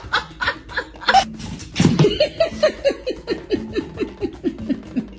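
A person laughing in a rapid run of short 'ha-ha' pulses, about four a second, each dropping in pitch.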